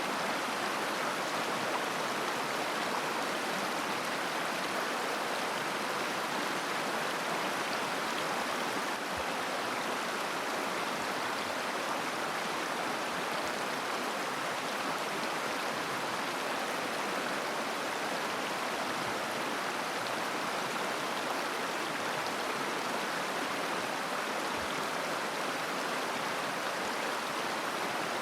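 River water flowing steadily over stones, an even rushing babble.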